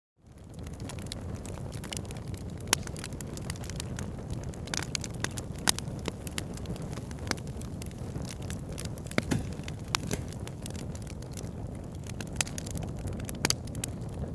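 Wood fire burning in a fireplace: a steady low rush of flame with frequent sharp crackles and pops, a few louder snaps scattered through. It fades in from silence at the very start.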